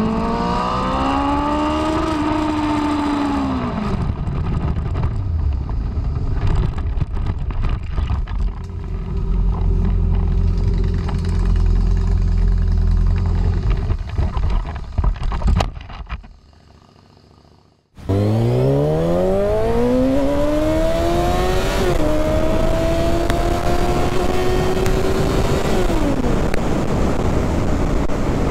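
Motorcycle engine under hard acceleration: the revs climb, ease off and fall, then give way to a stretch of wind and road noise. After a brief drop-out the engine revs up steeply again, steps down at a gear change, climbs once more and drops off as the throttle closes.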